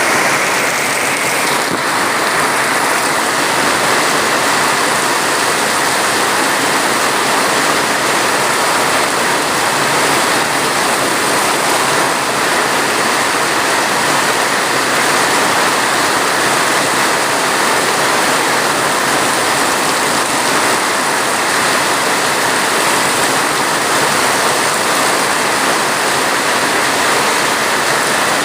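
Heavy rain falling as a steady, dense hiss with no distinct drops or breaks.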